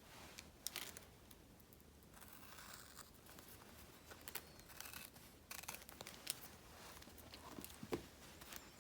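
Faint paper and sticker handling at a desk: scattered light taps and clicks, a short rustling tear or peel about two seconds in, and a soft knock near the end.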